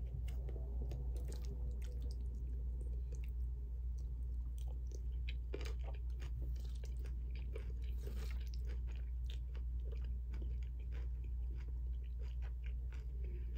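A person chewing a mouthful of beef and broccoli close to the microphone, with irregular small clicks and crunches, over a steady low hum.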